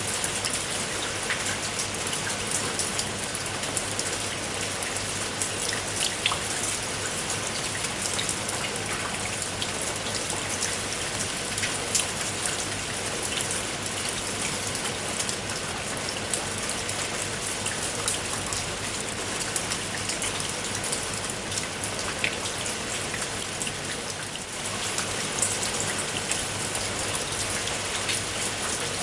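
Steady rain falling, with the close patter of many individual raindrops hitting a surface.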